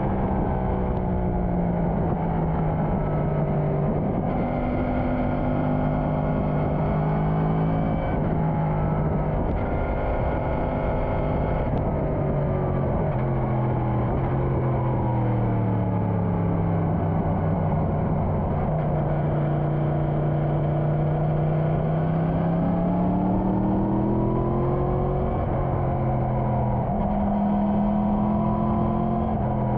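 Motorcycle engine running under way. Its pitch climbs and then steps down three times in the first twelve seconds, as gears are shifted up. It then holds a long steady low note and climbs again near the end.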